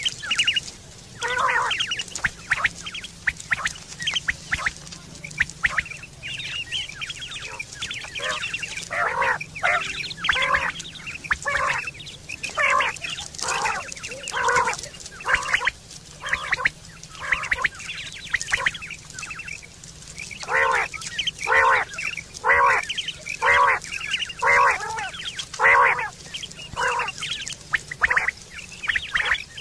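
Bird calls: short, harsh notes repeated in quick series of several calls, with pauses between the series.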